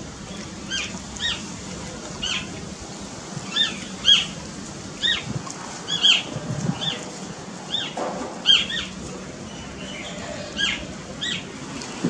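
Birds calling in short, arching chirps, one or two a second at irregular intervals, over a steady outdoor hiss.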